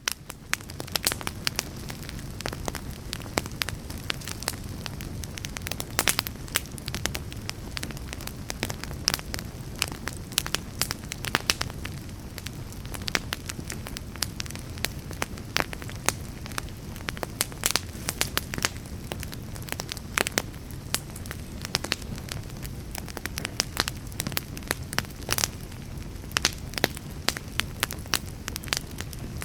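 Wood fire burning, with frequent sharp crackles and pops at irregular intervals over a steady low rumble of flames.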